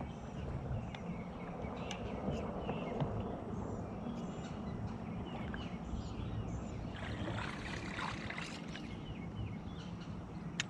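Steady low rumble of wind and water around a small fishing boat, with faint short high chirps scattered through it.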